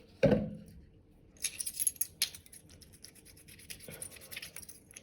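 Bicycle disc brake pads being scrubbed by hand with liquid hand wash: light scratching and rubbing with small scattered clicks, after one short squelching sound at the very start. The pads are being cleaned of oil contamination.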